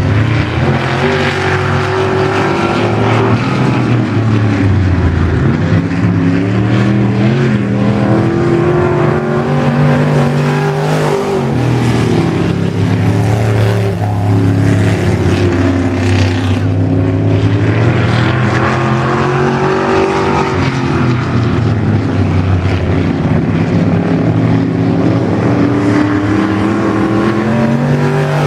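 Race car engine running laps on a track, its pitch climbing under acceleration and dropping back again and again. The owner says the car is geared too low.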